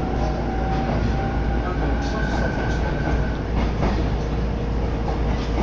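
A Karasuyama Line train running along the track, heard from inside the carriage: a steady rumble, with a faint high whine starting about a second in and lasting about two seconds.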